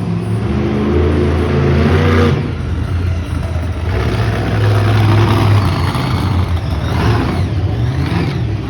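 Hot Wheels monster truck engine revving hard, its pitch rising and falling in surges as the truck runs.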